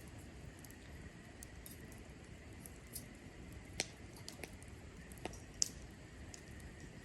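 Cherry-wood campfire crackling: scattered sharp pops and snaps over a low, steady hiss, the loudest snap about four seconds in and another about a second and a half later.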